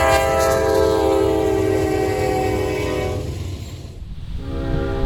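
Diesel locomotive air horn sounding a chord of several tones: one long blast of about three seconds that fades away, then a second blast starting near the end, over the low rumble of the locomotive.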